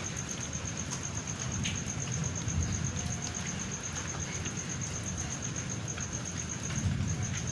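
Steady rain falling during a thunderstorm, with a low rumble underneath and scattered drip clicks. A thin, high-pitched chirp pulses about eight times a second throughout, dropping out briefly near the end.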